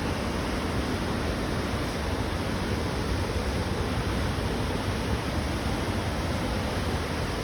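Swollen, flooding stream rushing steadily, an even, unbroken wash of water noise.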